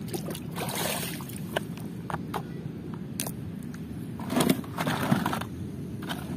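Plastic toy vehicles being handled and washed: scattered sharp clicks and knocks of plastic, with two brief noisy bursts of scrubbing or water, about a second in and again about four seconds in, over a steady low rumble.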